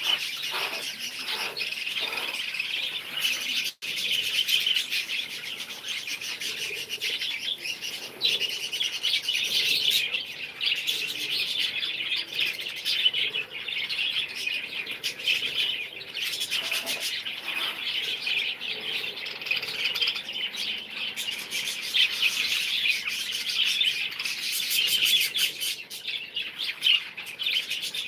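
A flock of small birds chirping and chattering continuously, many calls overlapping, with a momentary break in the sound about four seconds in.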